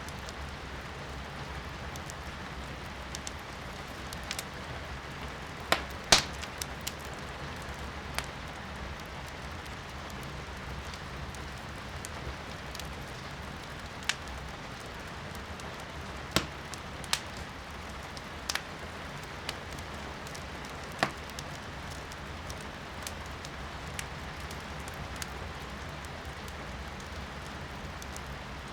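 Firewood burning in a fireplace, crackling and popping at irregular moments, with the loudest pop about six seconds in, over a steady hiss of rain.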